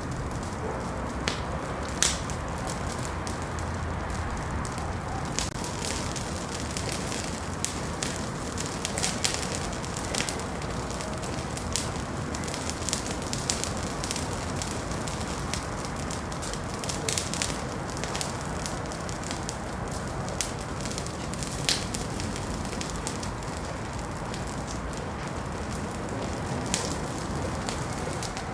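Wood fire crackling in a fireplace: a steady low hiss of burning with frequent sharp, irregular pops and snaps.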